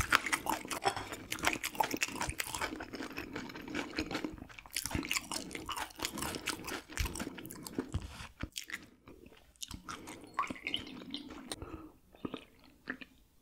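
Close-miked chewing of raw gizzard shad eaten bones and all, with a dense, wet crunching of the small fish bones. The crunching is dense for most of the stretch, then thins out and quiets near the end.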